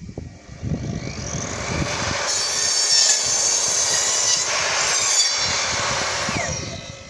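Evolution R255SMS multi-material mitre saw spinning up with a rising whine, cutting for about three seconds, then running down with a falling whine.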